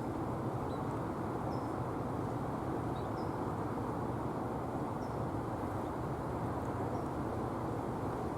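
Steady low rumbling background noise, with faint short high bird chirps about once a second.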